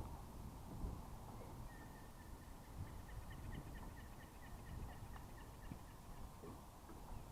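A bird calling a rapid run of short, high chirps, about four a second, for several seconds, over low wind rumble on the microphone.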